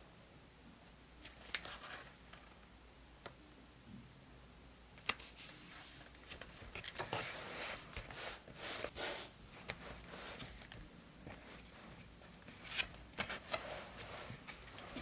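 Desk stationery being handled: a few sharp small clicks and taps, then a run of crisp paper rustling and crinkling about six to nine seconds in, and more clicks near the end.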